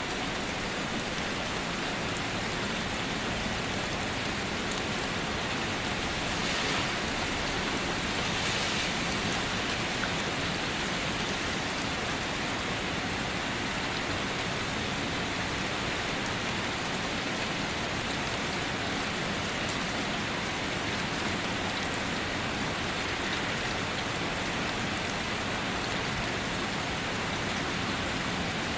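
Steady rain falling, a dense even hiss with faint scattered drop ticks and a slight swell in intensity about a third of the way in.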